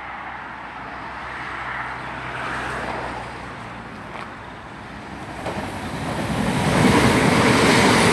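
Class 170 Turbostar diesel multiple unit coming through the station without stopping. Its wheel and engine noise on the track grows steadily louder, loudest near the end.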